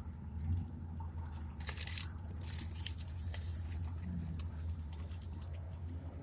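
Eating a burger close to the microphone: a paper wrapper crinkles and food is bitten and chewed in short crunchy bursts, most of them in the first half, over a steady low hum.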